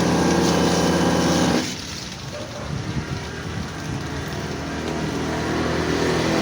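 A motor running with a steady hum cuts off abruptly about one and a half seconds in, leaving quieter background noise.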